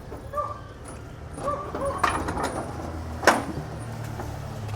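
A dog whimpering in a few short high yips, with light clatter and one sharp knock about three seconds in.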